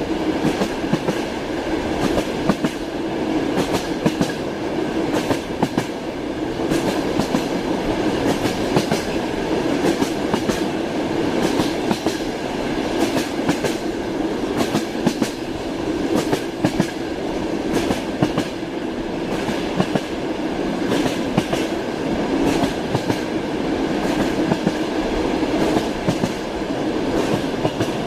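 Train wheels clacking over rail joints in repeated groups of sharp clicks, over the steady rumble of a train running at an even speed.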